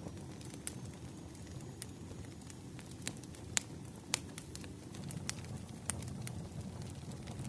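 Firewood burning: a steady low rush with irregular sharp crackles and pops, the loudest two a little before and after the middle.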